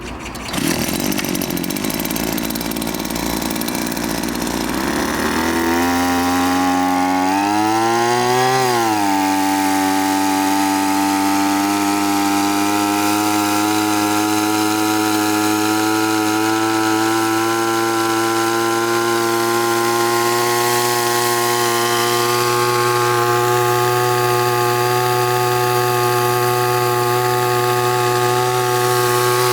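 Two-stroke engine of a backpack engine sprayer starts about half a second in and runs unevenly for a few seconds. Near eight seconds its pitch rises briefly, then falls back and it runs at a steady speed.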